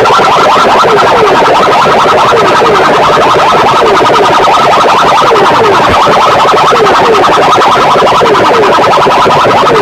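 Competing PA sound systems blaring siren-like electronic sound effects at full volume through loudspeakers: a dense, unbroken tangle of rapid pitch sweeps, with short falling chirps repeating over and over.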